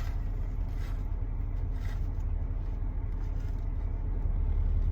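Steady low rumble of a car idling, heard from inside the cabin, with a few faint soft sounds over it.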